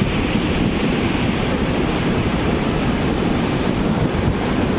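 A flooded river in spate rushing past: a steady, loud wash of water noise, heavy in the low end.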